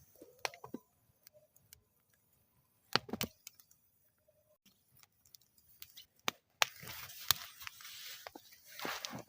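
Wood fire burning in a metal fire bowl, giving off sharp crackles and pops: a cluster about three seconds in, more around six to seven seconds, and a hissing stretch over the last few seconds.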